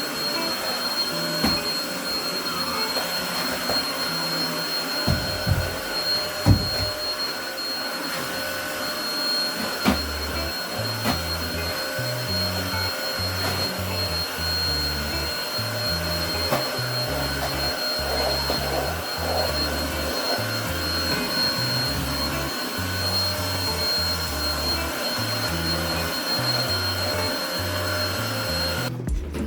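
Vacuum cleaner running steadily, with a constant motor whine and a few sharp knocks in the first ten seconds; it cuts off abruptly just before the end.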